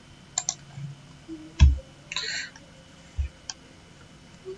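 A few scattered computer mouse clicks and keystrokes, with two low thumps and a short rustle between them.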